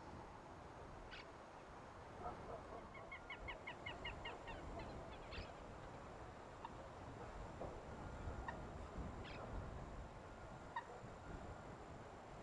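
Purple gallinule calling: a quick run of about nine short notes about three seconds in, then scattered single notes, over a steady low background hiss.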